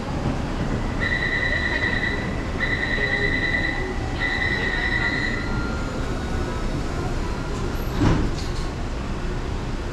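Metro train rumbling steadily, with three long, high electronic warning beeps of about a second each, then a single sharp knock about eight seconds in.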